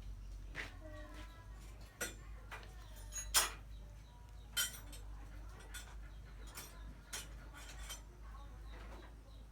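Irregular sharp clicks and knocks, the loudest about three and a half seconds in, with another strong one a second later.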